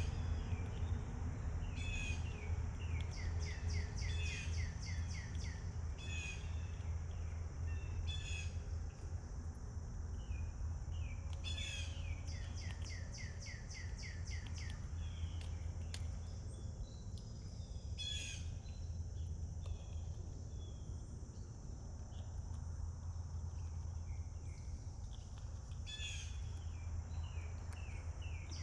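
A songbird singing short phrases at intervals of a few seconds, each a quick run of repeated notes. Under it runs a steady low rumble and a constant high hiss.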